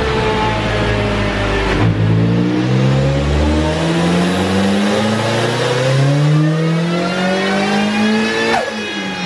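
Turbocharged Mazda MX-5 four-cylinder engine doing a wide-open-throttle power run on a dyno. The revs climb steadily for about six and a half seconds, then fall sharply near the end as the throttle closes.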